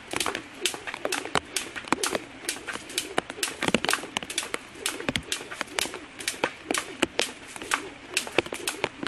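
Raindrops hitting close to the microphone: irregular sharp taps, several a second.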